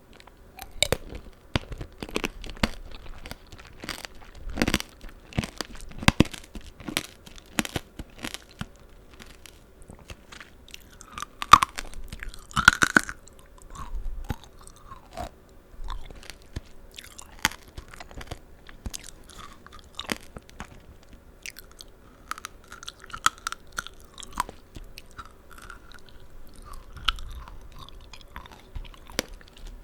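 Close-up chewing of tanghulu, fruit coated in a hard sugar-candy shell: the shell crunches and cracks between the teeth as sharp clicks. The crunches are densest in the first several seconds, with two louder cracks about twelve seconds in.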